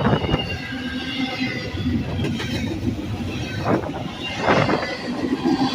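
Freight train passing: a steady rail rumble broken by a few heavier thumps.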